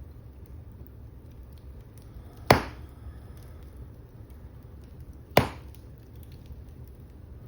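Wood fire burning in a fireplace with a steady low rumble, and two loud, sharp pops from the burning logs about three seconds apart.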